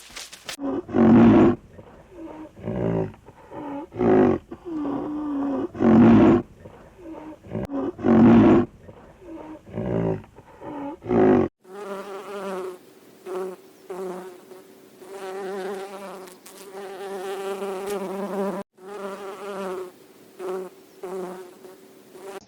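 A farm animal calling in short, loud, repeated bursts about every second. About halfway through this cuts to a steady buzzing of a flying insect, like a fly or bee, wavering slightly in pitch.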